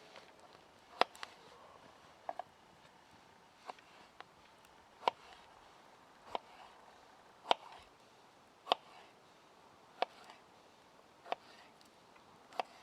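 Sharp chopping knocks on wood in a steady, unhurried rhythm, about one strike every second and a quarter, with one quick double strike a couple of seconds in.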